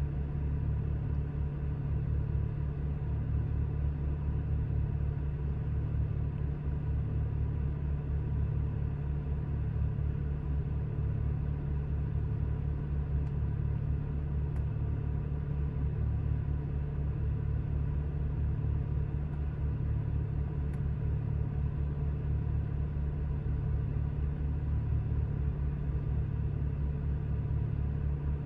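2007 BMW 335i's twin-turbocharged 3.0-litre inline-six idling steadily, a low even rumble with no revving.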